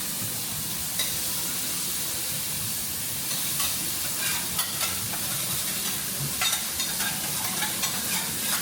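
Food sizzling on a teppanyaki steel griddle in a steady hiss, with short sharp clicks of metal utensils on the griddle every so often.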